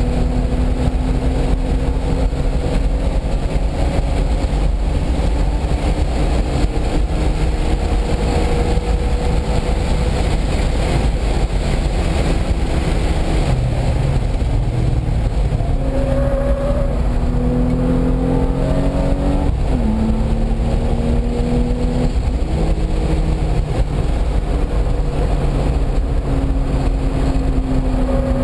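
Car engine running hard on a race track, over a steady low rumble of wind and road noise. Its pitch holds fairly steady at first, then shifts up and down several times in the second half, with a sudden drop in pitch about two-thirds of the way through.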